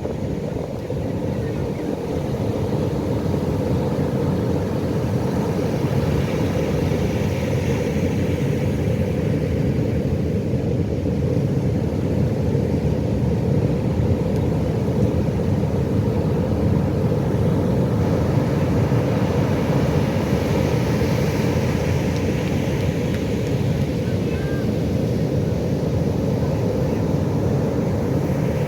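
Pacific Ocean surf: a steady low rumble of waves, with the hiss of a wave breaking and washing in swelling up twice, about a quarter of the way in and again after two-thirds.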